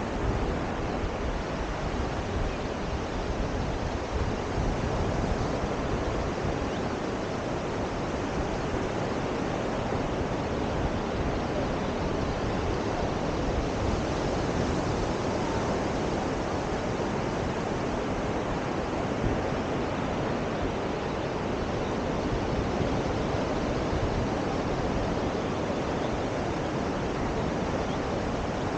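Steady wash of ocean surf on a beach, with wind on the microphone rumbling unevenly underneath.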